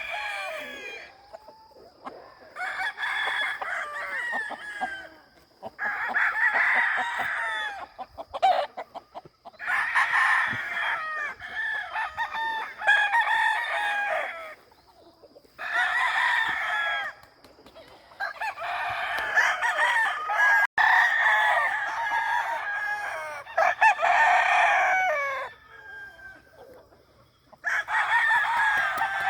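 Gamefowl roosters crowing again and again, several overlapping, in bouts of a few seconds with short pauses between. A faint steady high tone sits under the first two-thirds.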